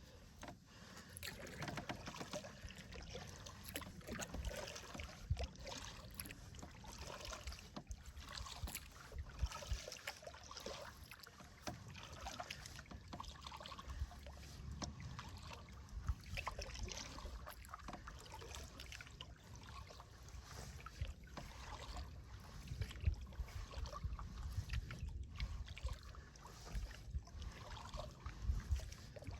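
Double-bladed kayak-style paddle dipping and pulling through the water alongside a cedar-strip solo canoe, with irregular splashes and water trickling along the hull as the boat moves.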